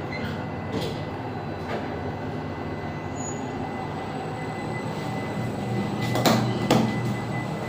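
Schindler passenger lift car travelling down its shaft: a steady hum and rumble of ride noise, with two sharp clicks about six seconds in as it nears the floor.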